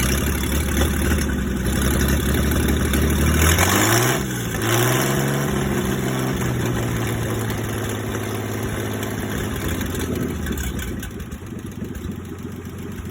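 Rebuilt 1930s Dodge engine running on an engine stand. Its speed changes briefly about four seconds in, then it settles into a steady, even idle.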